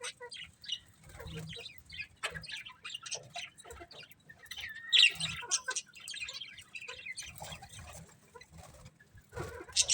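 Budgerigars chirping and chattering in short, scattered calls, with a louder sharp call about five seconds in and a quick burst of chirps near the end.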